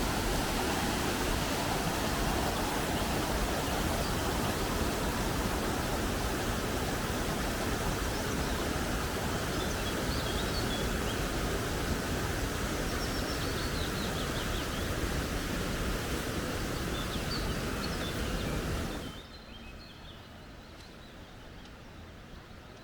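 Creek water rushing steadily, with faint bird chirps over it. About nineteen seconds in the rushing drops away sharply, leaving a much quieter background with a few more chirps.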